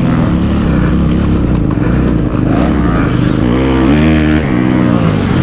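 Kawasaki KX250F four-stroke single-cylinder dirt bike engine, bored out to 290, pulling hard on a motocross track. Its revs climb sharply about three and a half seconds in, then drop back about a second later.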